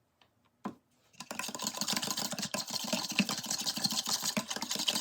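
A mixture being whisked rapidly in a bowl, a dense continuous clatter that starts about a second in.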